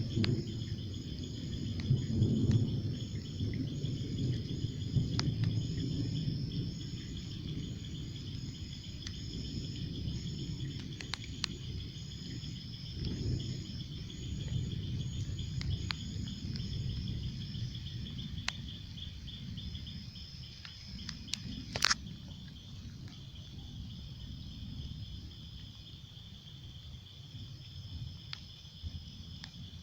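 Crickets and other insects trilling and chirping steadily over a low rumbling background noise that slowly fades. A few sharp clicks, the loudest about two-thirds of the way through.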